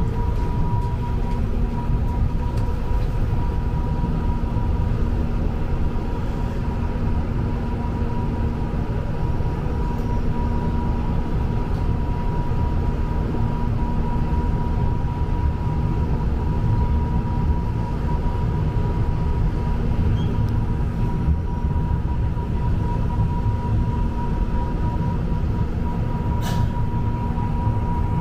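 Jakarta KRL commuter electric train running, heard from inside the car: a steady rumble with a constant hum running through it.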